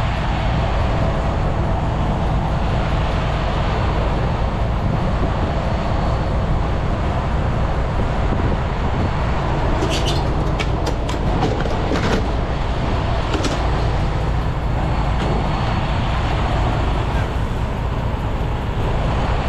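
Semi truck's diesel engine running with a steady low rumble, and a short cluster of sharp clicks about halfway through.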